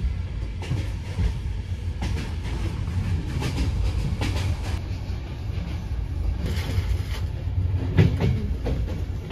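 A moving passenger train heard from inside a compartment: the steady low rumble of the carriage running on the track, with scattered clicks and knocks from the wheels and carriage. The loudest knock comes near the end.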